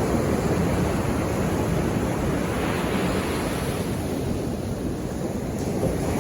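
Sea waves breaking and washing up the shore: a steady rush of surf that eases a little past the middle and builds again near the end.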